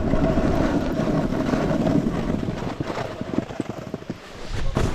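Snowboard sliding over wet, bumpy snow: a steady scraping rush with irregular chattering knocks as the board runs over bumps, and wind on the microphone.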